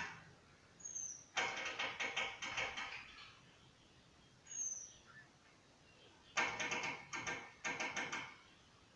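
A bird calling: two harsh, rapidly pulsed phrases of about a second and a half each, with short high whistles that drop slightly in pitch in between.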